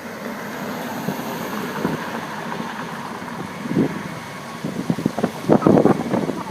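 Airbus A321neo jet engines at takeoff power, a steady rumble, with wind buffeting the microphone in irregular gusts that are loudest near the end.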